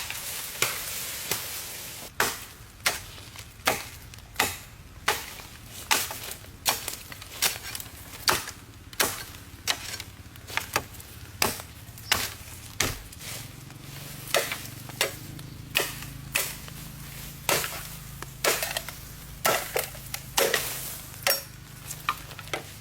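Steady, rhythmic chopping of wood with a blade, one sharp strike about every three-quarters of a second, over a faint low hum that grows stronger about halfway through.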